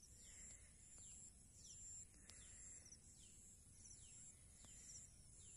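Faint outdoor ambience, near silence: a bird repeats a short falling high call about twice a second over a steady high insect drone.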